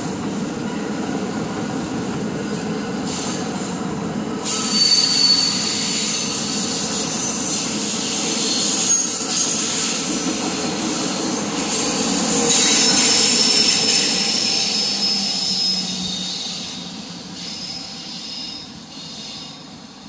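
EXO commuter train's bilevel coaches rolling past with steady wheel-on-rail noise and bursts of high-pitched wheel squeal, loudest about 5, 9 and 13 seconds in. The sound fades over the last few seconds as the train pulls away.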